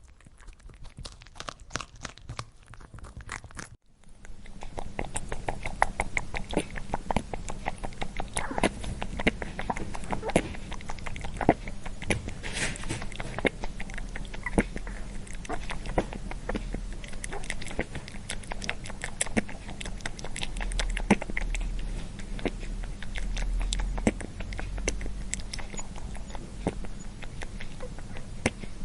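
Rabbit chewing food: rapid, irregular crisp crunching clicks. There is a brief break about four seconds in, after which a low steady hum runs under the chewing.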